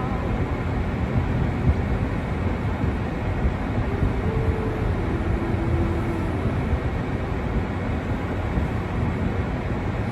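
Steady, rough wind noise buffeting the microphone in a snowstorm, heaviest in the low end, with a faint held tone coming in about four seconds in and fading a few seconds later.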